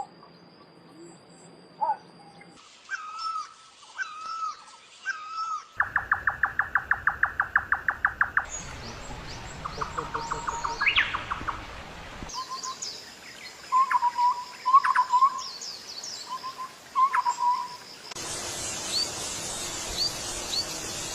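Birds calling in a string of spliced recordings that change abruptly every few seconds. Whistled phrases give way to a fast, even run of notes at about seven a second, then repeated short calls and chirps.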